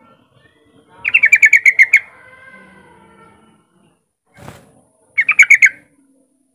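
Yellow-vented bulbul singing: a quick run of about nine bright, rapid notes about a second in, then a shorter run of about five near the end. A single brief knock falls between the two runs.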